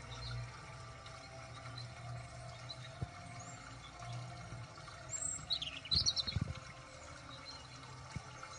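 A bird chirping a few times in quick succession about halfway through, over a steady low hum, with a few soft bumps as a rock specimen is handled close to the microphone.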